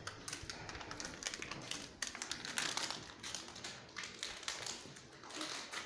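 Irregular clicking and tapping, several strokes a second, with some crinkling.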